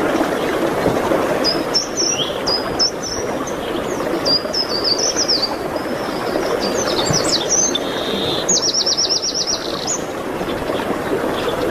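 Small songbirds singing over a steady rushing background: a string of high, quick chirps and whistled notes from about a second and a half in, with a rapid trill of about ten notes a little before the end.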